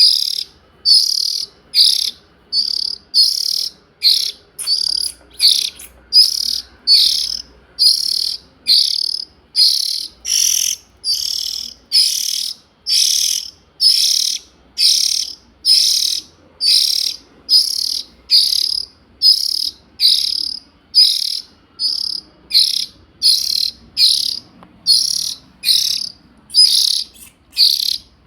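Juvenile oriental magpie-robin giving a harsh, hissing call over and over, a little more than one call a second, each call about half a second long.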